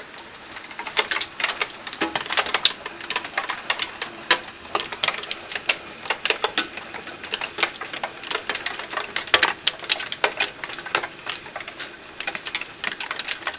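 Hailstones striking a hard surface: a dense, irregular stream of sharp ticks and clicks.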